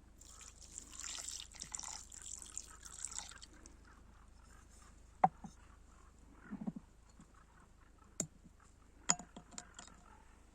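Liquid pouring or splashing, with a crackly hiss for about three seconds. Then come a few sharp clicks and a short soft thump, like utensils or containers being handled.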